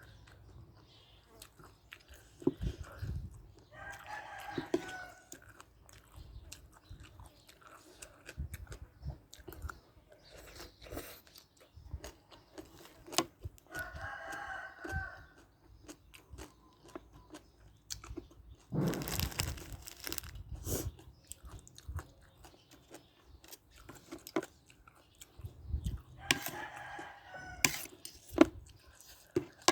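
Close-up eating sounds: chewing with sharp crunches and clicks of a mouth working through papaya salad. A rooster crows three times in the background, roughly ten seconds apart.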